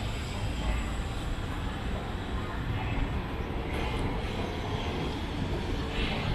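Steady low rumble and hiss of city traffic, with no single event standing out.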